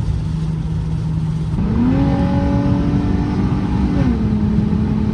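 Infiniti G35's 3.5-litre V6 engine running under way: its note climbs about a second and a half in, holds, then drops back about four seconds in.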